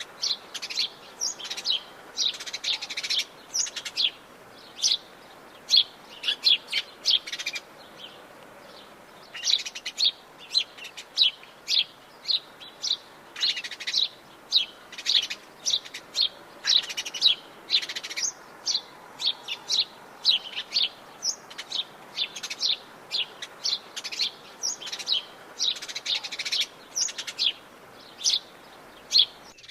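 Several birds chirping and singing in quick, overlapping short notes, with a brief lull about eight seconds in, over a faint steady background hiss.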